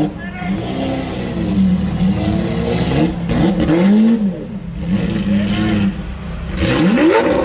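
Lamborghini supercar engine idling with throttle blips, its exhaust note rising and falling several times, then climbing steeply in revs near the end.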